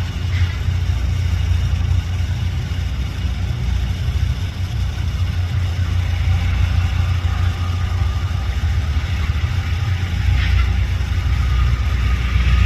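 LORAM rail grinder running, its diesel engines giving a steady low rumble that grows a little louder about ten seconds in.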